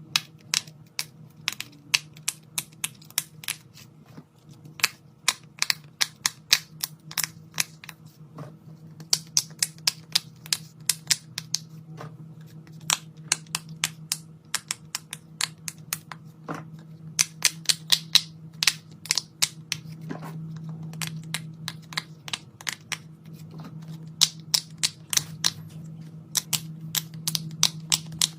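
Quick runs of sharp plastic clicks and taps from fidget toys being handled, several a second with short pauses between runs, over a steady low hum.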